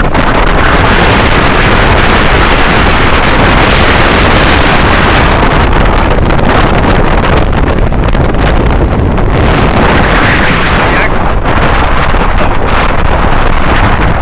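Loud wind buffeting the microphone, a dense rushing that swells and eases in gusts, over the running noise of a boat under way at sea.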